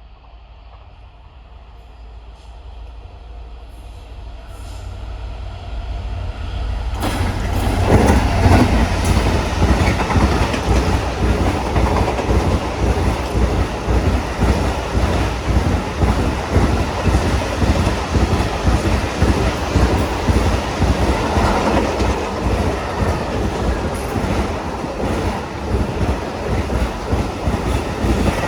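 Train approaching, growing steadily louder, then passing close by from about seven seconds in with a continuous heavy rumble and rattle of wheels on the rails.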